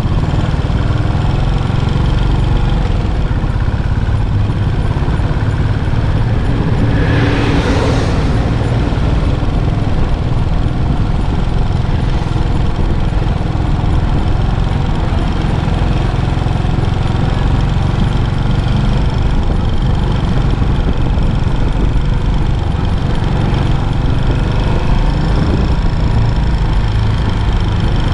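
Yamaha SR400's single-cylinder four-stroke engine running through its stock muffler, steady with a few gentle rises and falls in pitch. A brief rush of noise swells and fades about seven seconds in.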